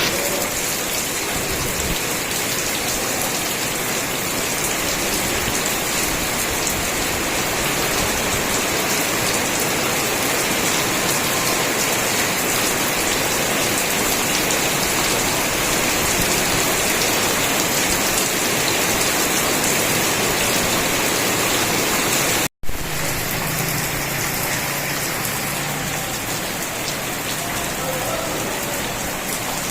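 Steady rain falling, an even, dense hiss that cuts out for a split second about three quarters of the way through.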